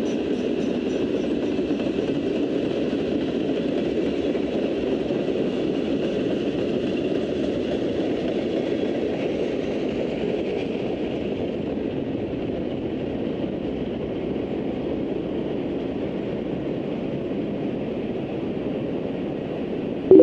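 Freight cars of a mixed freight train rolling past on the rails: a steady rumble and clatter of wheels that eases slightly over the second half. A brief, loud tone sounds right at the very end.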